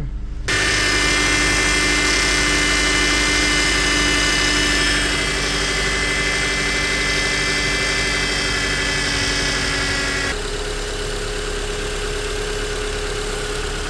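Honda Accord 2.4 inline-four engine running steadily at idle after a power steering pump replacement. It comes in suddenly about half a second in, and its tone steps down to a slightly quieter, settled idle about ten seconds in.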